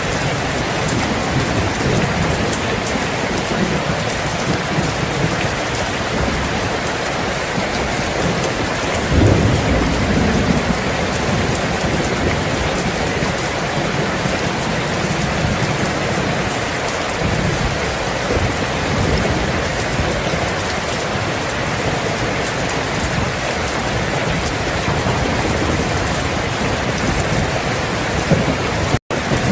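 Steady heavy rain with low rolling thunder rumbling underneath, swelling most about a third of the way in. Near the end the sound cuts out for a split second.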